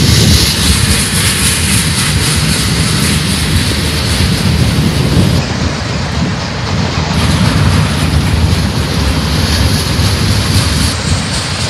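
Mixed freight cars of a manifest train rolling past close by: a steady, loud rumble of steel wheels on rail with many small clicks and knocks.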